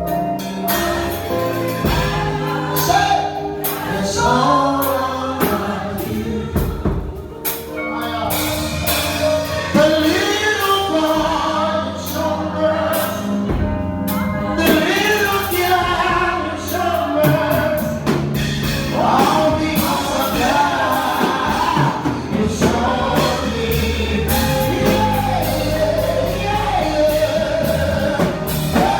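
Live gospel music: a singer and choir-style backing vocals over a band with drums and sustained keyboard chords.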